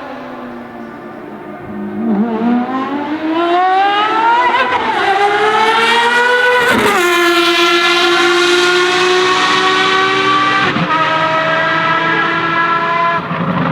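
Ferrari FXX Evo's naturally aspirated V12 at full throttle on track: the engine note climbs steadily as the car accelerates towards the microphone, drops suddenly about seven seconds in, holds a steady high wail, then drops again near the end.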